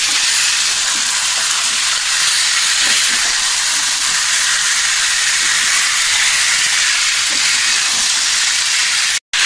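Raw chicken pieces frying in oil with onion and masala in a nonstick pan, a steady sizzling hiss as they are stirred in with a spatula. The sound cuts out for a split second near the end.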